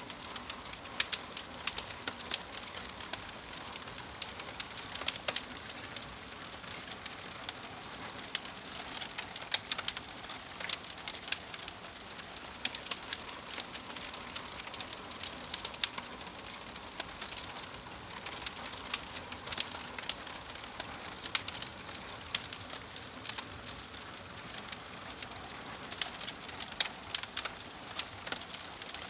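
Wood fire crackling: a steady soft hiss with frequent sharp, irregular pops and snaps, several a second.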